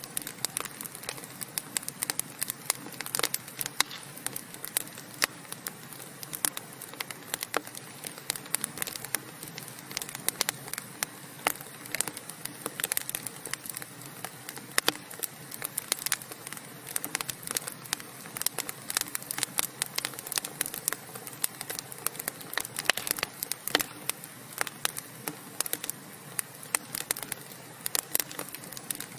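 Burning wood logs crackling: rapid, irregular pops and snaps over a steady hiss.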